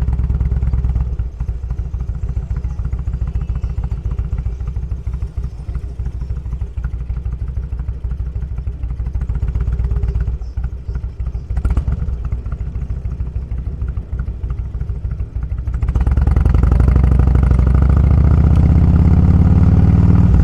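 Motorcycle engine running steadily, with a quick click a little past the middle. About three-quarters through it gets clearly louder and its pitch rises as the bike speeds up.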